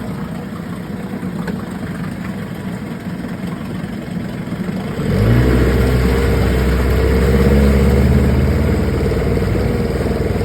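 1976 Johnson 9.9 hp two-stroke outboard motor running at idle, then about halfway through the throttle is opened and it runs louder and faster, holding the higher speed steadily. The motor is warmed up after a cold start and freshly serviced.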